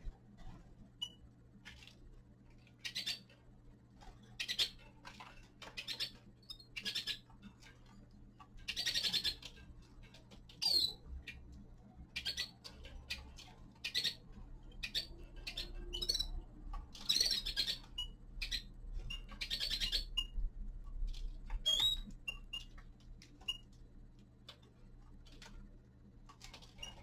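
Caged finches calling with scattered short chirps and several longer, harsh buzzy notes, among small clicks and taps, over a steady low hum.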